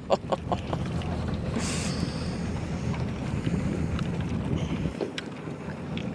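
Wind buffeting the microphone over a steady low rumble on a small fishing boat at sea, with a few light ticks near the start and a brief high hiss about two seconds in.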